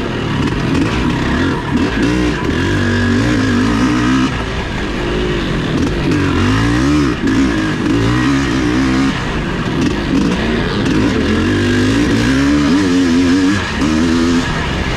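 Vintage off-road racing motorcycle engines running hard, the pitch climbing and dropping again and again as the throttle is worked and gears are shifted, with more than one engine note overlapping at times.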